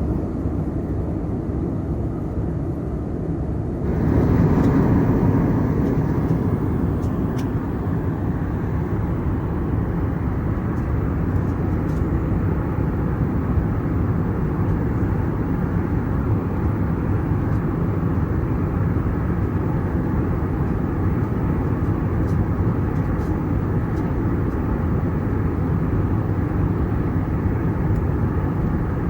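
Steady jet engine and airflow noise inside the cabin of an Airbus A321neo airliner, getting louder about four seconds in and then holding even.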